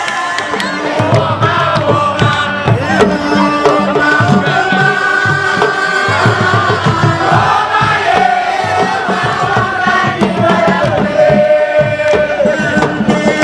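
A crowd chanting and singing together in unison over beating drums, loud and continuous.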